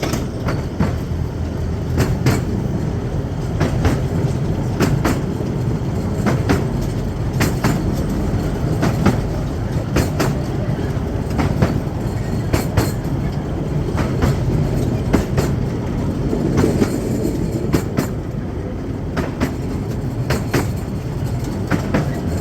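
Miniature railway train running along its track: a steady rumble with the wheels clicking over the rail joints about once or twice a second.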